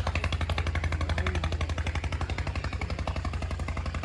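Motorcycle engine running with a rapid, even beat of about ten pulses a second.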